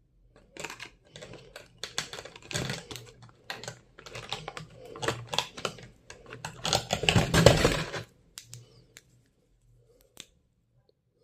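Stationery items and their packaging being handled: a dense run of clicks and rustling, loudest around seven seconds in, thinning to a few scattered clicks near the end.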